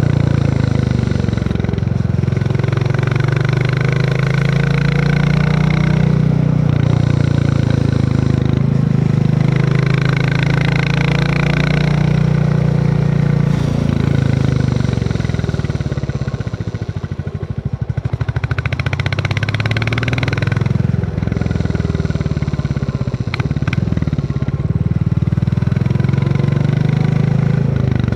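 Royal Enfield Classic 350's single-cylinder engine thumping along under way, its pitch shifting with throttle and gears; it eases off about fifteen seconds in, then picks up again a few seconds later.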